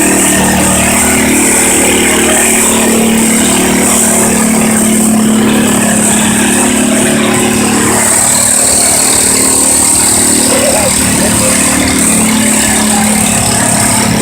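Garden tractor engine running loud and steady at high revs under load, pulling a weight sled down the track.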